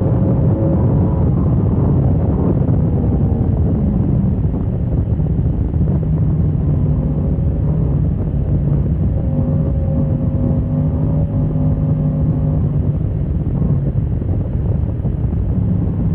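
Motorcycle engine running hard on track, its note rising and falling with the throttle, under heavy wind rumble on the microphone.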